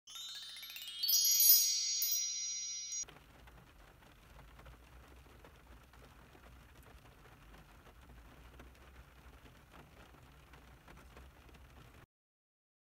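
A bright run of chime tones climbing quickly in pitch and ringing on for about three seconds, then cutting off. After it comes a faint low rumbling noise that stops about twelve seconds in.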